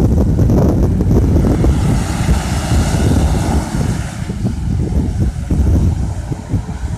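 Gusty wind buffeting the microphone over the steady rush of a cargo jet's engines; the rushing hiss swells between about two and four seconds in.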